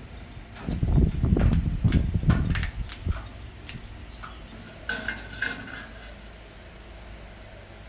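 Metal pieces clinking and clattering as they are handled: a dense run of knocks about a second in, then a shorter clatter with a brief ringing note around five seconds in.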